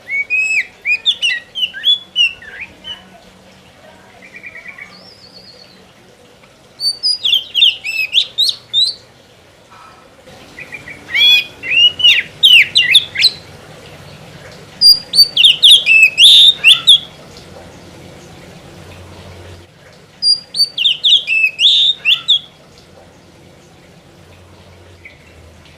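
Oriental magpie-robin singing in five loud phrases of about two seconds each, every phrase a quick run of sweeping whistled notes, with short pauses between them.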